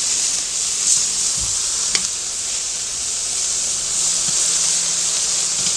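Smash burgers sizzling on a red-hot carbon steel plancha, a steady high hiss of fat frying on the steel.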